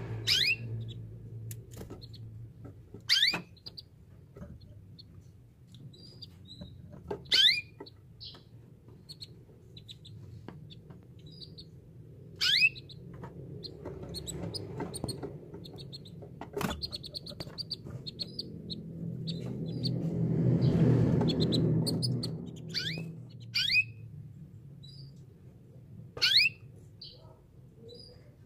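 Domestic canary singing: loud, brief downward-sweeping whistles every few seconds among short, high chirps. A low rumble swells and fades about two-thirds of the way through.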